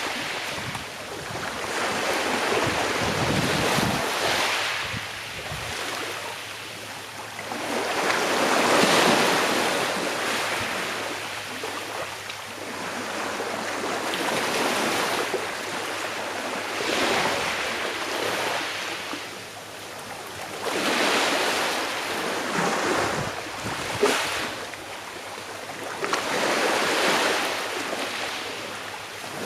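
Calm sea waves washing onto a shore, swelling and ebbing every few seconds, with occasional low wind rumble on the microphone.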